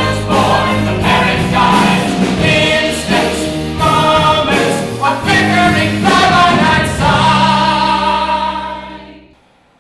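Ensemble singing from a musical-theatre score over band accompaniment, ending on a held chord that fades out near the end.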